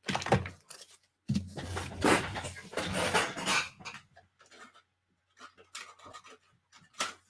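Hands handling paper and cheesecloth on a work table: a couple of seconds of rustling and crinkling, then a few small taps and clicks, with one sharper tick near the end.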